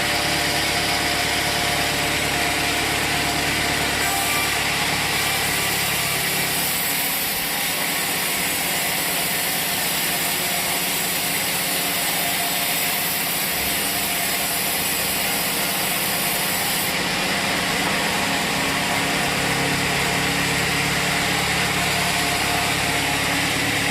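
Sawmill machinery running steadily with an engine hum. A higher rushing hiss rises about four seconds in and falls away again near seventeen seconds.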